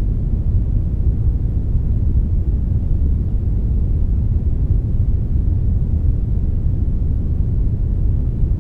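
Steady synthetic brown noise blended with some white noise: an even, deep hiss with most of its weight in the low end and only a thin top, unchanging throughout.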